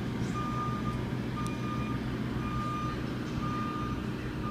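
A backup alarm beeping about once a second, each beep a steady half-second tone, over the continuous low hum of an engine running.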